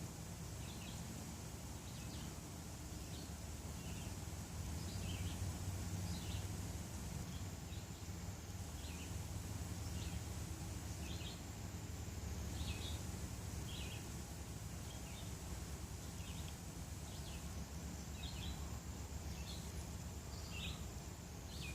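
Faint outdoor ambience: short, high bird chirps repeat about once a second over a low, steady rumble.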